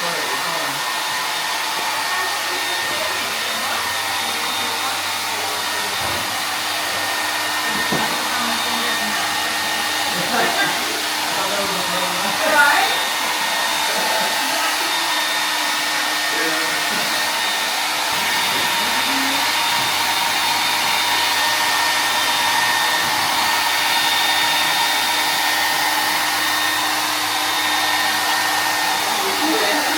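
A blower or fan motor running steadily: a continuous rushing air noise with a faint steady hum, starting abruptly.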